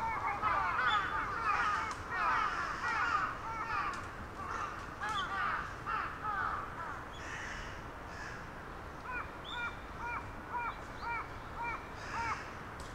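Birds calling in the trees: a busy stretch of quick, overlapping chirping calls that thins out, then about seven evenly spaced repeated calls, roughly two a second, near the end.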